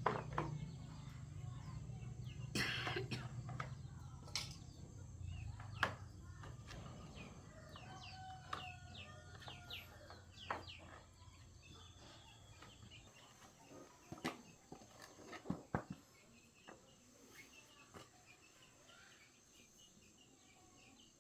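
Bird calls, with scattered sharp knocks over a low hum that stops about twelve seconds in.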